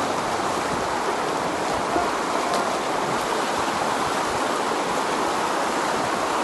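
Fast-flowing floodwater rushing steadily, a constant hiss-like roar of moving water from rising river flooding.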